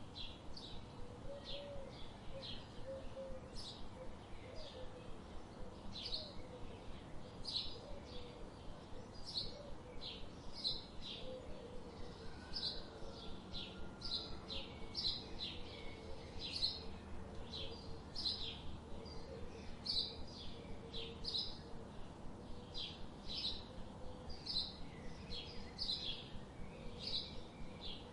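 Birds chirping: short, high chirps repeated about twice a second, with a fainter, lower warbling call behind them, over a soft, steady hiss.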